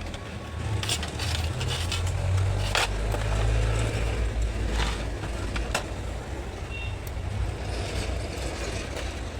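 Scattered clicks and knocks of the plastic back cover of an LED TV being unscrewed and prised off, over a steady low rumble.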